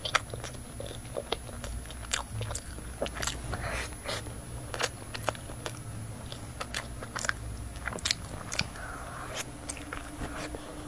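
Close-miked chewing of a soft pastry bun, with many small irregular wet mouth clicks, and another bite taken near the end.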